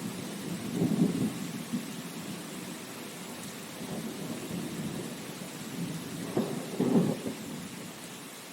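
Steady rain hiss with low rolling rumbles of thunder, swelling about a second in and again louder near the end before dying away.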